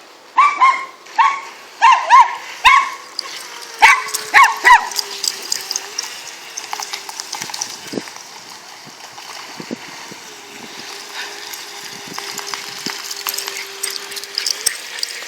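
Dogs barking in a quick run of about nine sharp barks over the first five seconds. After that the barking stops and a steady rushing noise takes over, with a faint steady hum under it.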